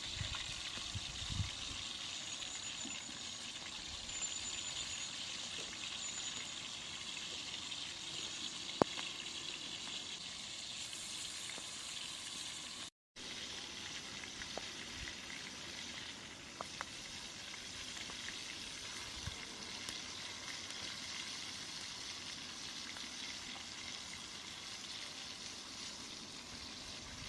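Food frying in a pan: a steady sizzling hiss with an occasional faint click. It cuts out for a moment about halfway through, then resumes.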